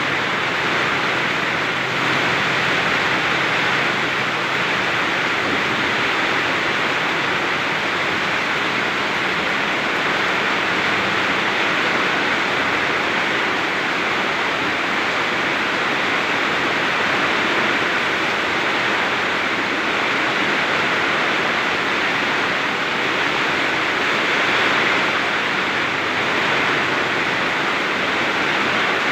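Very heavy rain pouring in a storm with strong wind: a dense, steady hiss that swells only slightly, with no thunder.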